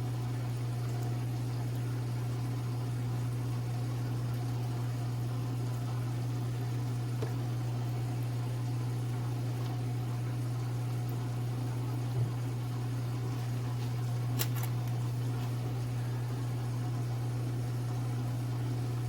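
Steady low hum of a running fan or appliance motor, with a faint click about twelve seconds in and a brief sharp click about two seconds later.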